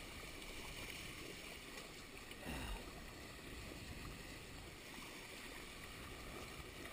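Steady low wash of water against the hulls of a small Nacra 5.2 beach catamaran, with a brief louder surge about two and a half seconds in.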